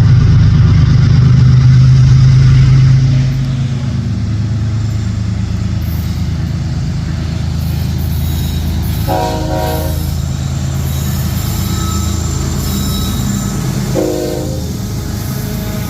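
Freight train passing with its GE diesel locomotives, an ES44AH and an ES44AC. The loud engine rumble fades about three seconds in as the locomotives go by, leaving the steady rolling noise of the cars. Two short pitched tones sound about nine and fourteen seconds in.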